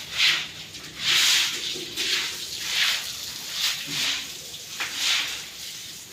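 Cow dung being scraped and swept off a cattle shed floor: rough swishing strokes, about one a second.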